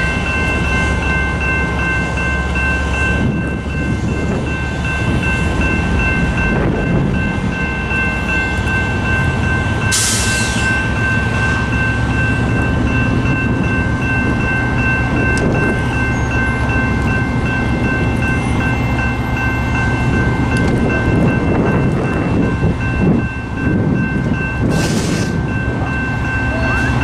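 BNSF diesel locomotive running as it slowly pulls loaded scrap-metal gondolas, with a steady low engine rumble and several steady high tones running the whole time. Two short hisses, about ten seconds in and near the end.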